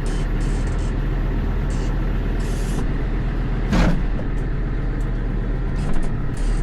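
Diesel tractor engine running steadily, with one brief sharp burst of noise a little under four seconds in.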